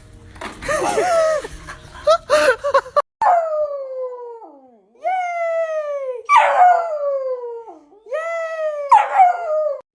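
A dog howling: four long calls, each sliding down in pitch, after about three seconds of shorter, choppier cries.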